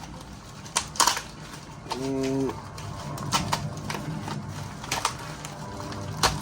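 Small concrete fingerboard-park curbs clacking as they are handled and set down: a scattering of sharp knocks, the loudest about a second in and just before the end. A short hum of a man's voice comes about two seconds in.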